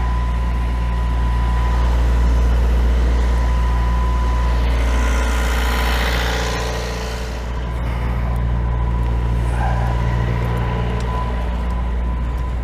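Perkins 4-108 four-cylinder marine diesel engine running steadily, with a swell of hiss about halfway through.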